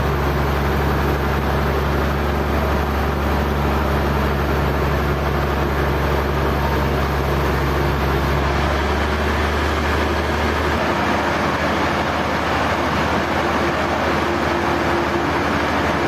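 Sawmill machinery running steadily: a dense, continuous mechanical noise with a low hum underneath that changes abruptly about eight and a half seconds in, and again about eleven seconds in.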